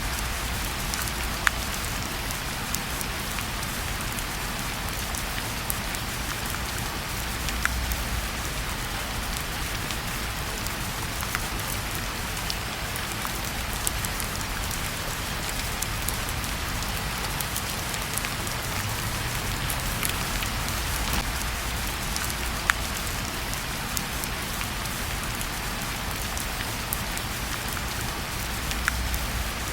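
Steady rain hissing without a break, mixed with a wood fire in a fireplace that gives scattered sharp pops and crackles every few seconds.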